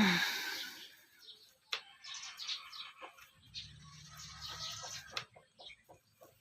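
Chickens chirping and clucking while feeding, with many short sharp taps mixed in.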